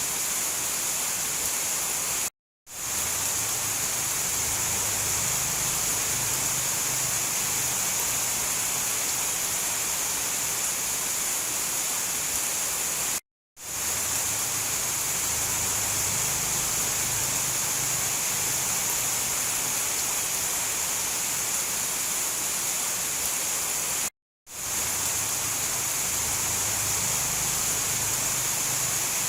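Steady rain falling, an even rushing hiss with a faint low rumble under it. It cuts out to silence three times, about every eleven seconds, and fades straight back in each time.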